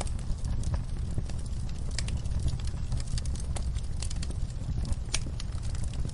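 Wood fire burning in a fireplace: a steady low rumble of the flames with irregular crackles and sharp pops from the burning logs, a few louder pops standing out.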